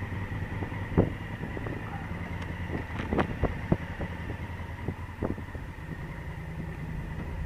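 Honda Africa Twin CRF1000L's parallel-twin engine running low and steady, with several sharp clicks or knocks scattered through it.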